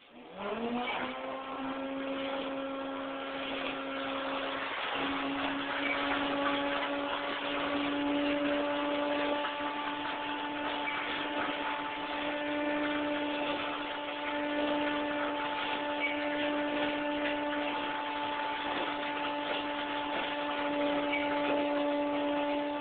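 A motor starts up, its pitch rising briefly at the start, then runs at a steady pitch: a steady hum with overtones over a constant hiss.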